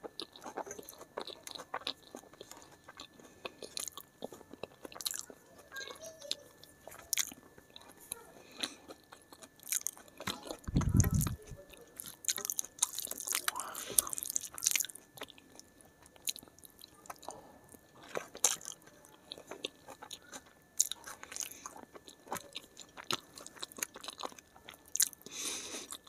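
Close-miked chewing and crunching of a mouthful of rice and vegetable sabji, with many short wet mouth clicks. A low thump about eleven seconds in is the loudest sound.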